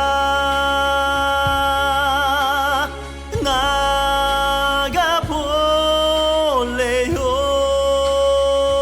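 A singer holding long notes with vibrato, sliding down in pitch between them, over a steady instrumental backing: a song from a children's musical.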